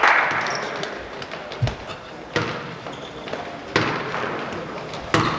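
A basketball bouncing on the gym floor: four separate thuds spaced more than a second apart, over a crowd roar that fades away in the first second or two.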